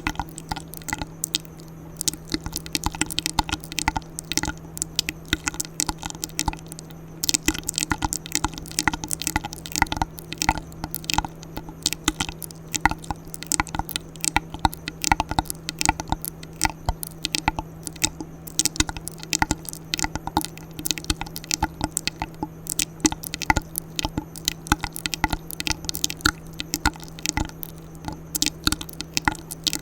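ASMR mouth sounds close to the microphone: quick, uneven wet clicks and smacks, several a second, over a steady low hum.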